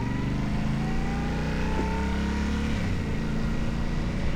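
Yamaha Ténéré 700's parallel-twin engine pulling under throttle while riding. Its pitch climbs steadily until nearly three seconds in, then drops as the revs fall.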